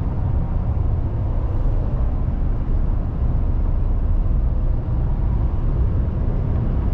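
2020 GMC Sierra pickup cruising at about 60 mph, heard from inside the cab: a steady low rumble of road, tyre and engine noise.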